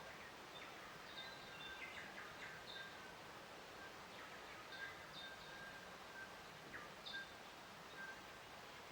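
Faint nature ambience: scattered short bird chirps and high notes, some held briefly, over a steady soft background hiss.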